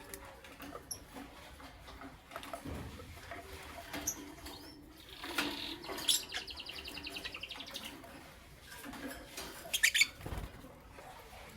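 Lovebirds chirping. A fast, even trill runs for about two seconds in the middle, and a cluster of sharp, loud chirps comes near the end, amid scattered clicks and a couple of low thumps.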